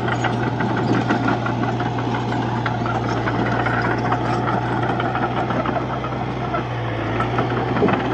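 Bulldozer's diesel engine running steadily, with a dense rapid rattle over its low engine tone.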